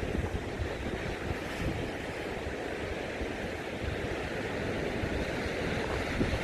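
Ocean surf washing in steadily under strong wind, with gusts buffeting the microphone in a low rumble.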